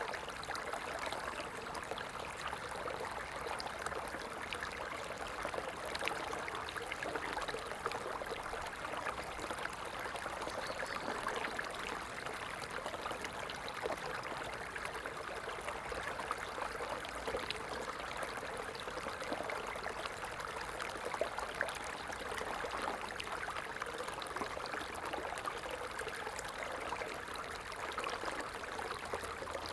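Stream flowing, a steady, even rush and trickle of water with no change.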